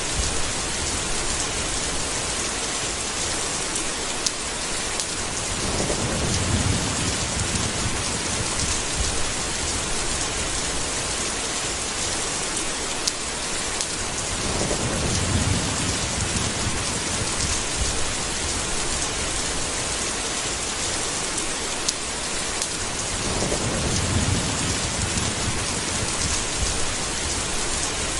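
Steady heavy rain of a thunderstorm, with three low rolls of thunder rumbling up and fading, about nine seconds apart.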